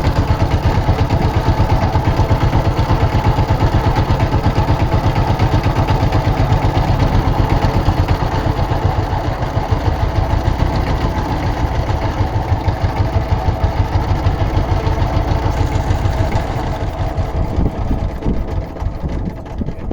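Motorboat engine running steadily with a fast, even throb, growing fainter over the last few seconds.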